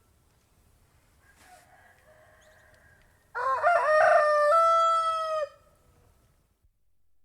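A rooster crowing once, a single cock-a-doodle-doo starting a little past the middle: a wavering, broken opening that settles into a long held final note. Faint background noise before it.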